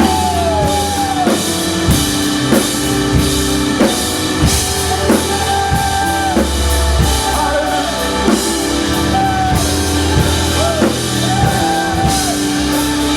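Live gospel praise band playing a song with a steady drum-kit beat and instruments, while singers add wordless vocal runs that glide up and down in pitch.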